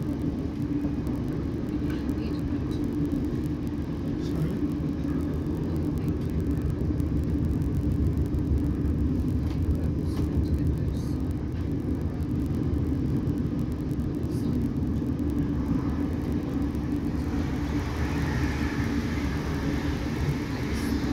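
A class 455 electric multiple unit running at speed, heard from inside the carriage: a steady low rumble of wheels on the track, with a higher hiss building near the end.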